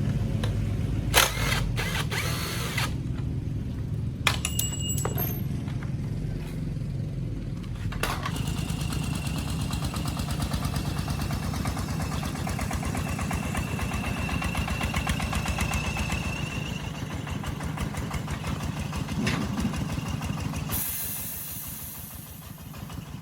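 A vehicle's engine running steadily, with a few sharp clicks in the first few seconds; the engine sound fades away about 21 seconds in.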